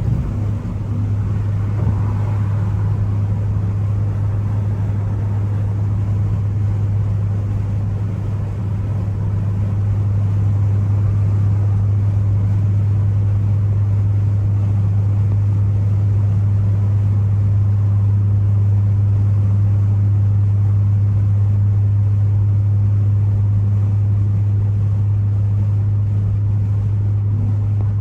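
Ford Focus ST engine and road noise at a steady cruise: a constant low drone that gets a little louder about nine seconds in.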